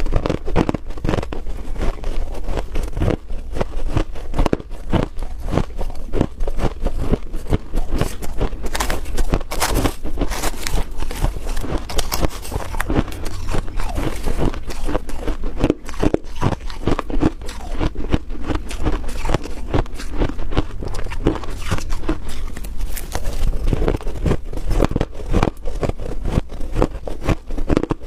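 A person biting and chewing freezer frost, with many quick, crisp crunches packed close together.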